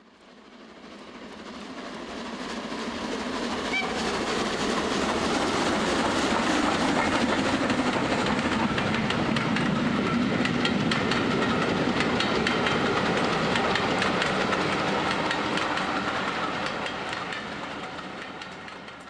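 A train running on rails, with a steady rumble and the rapid clickety-clack of wheels over the track. It fades up over the first few seconds, holds steady, and fades away near the end.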